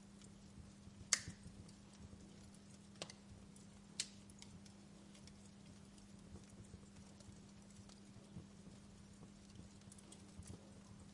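Wood fire burning quietly, with a few sharp pops about a second, three and four seconds in and small faint crackles between, over a faint steady low hum.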